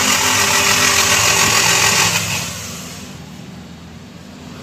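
A 2019 Toyota Hilux petrol engine held at raised revs with a loud hiss, then dropping back about two seconds in and settling much quieter.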